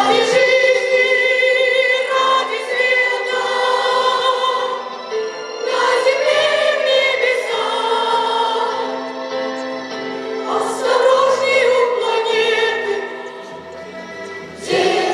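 School choir singing long held, wavering notes in phrases of a few seconds each, quieter near the end.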